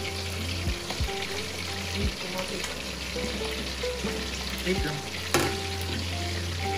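Crispy pata (pork hock) deep-frying in hot oil, a steady crackling sizzle with a sharp pop a little past five seconds in.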